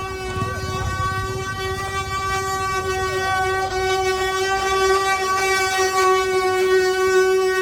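Wooden axle of a Brazilian ox cart (carro de boi) singing as the cart rolls: one long, steady droning whine full of overtones, holding its pitch and growing a little louder in the second half.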